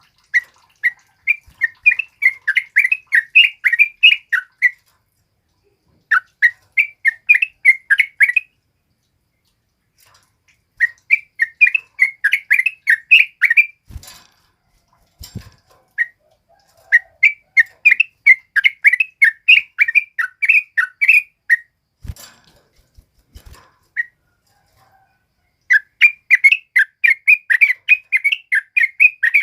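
Trucukan (yellow-vented bulbul) singing: five phrases of rapid, bubbly chattering notes, each two to four seconds long, with short pauses between. A few soft low thumps fall in the gaps.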